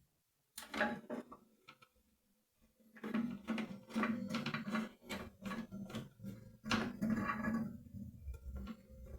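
Clicks and light clattering of small parts being handled, scattered at first and coming thick and fast from about three seconds in.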